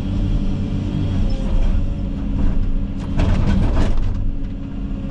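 Komatsu 360 excavator's diesel engine running under hydraulic load, its note shifting as the machine works. About three seconds in there is a second-long burst of crackling and snapping.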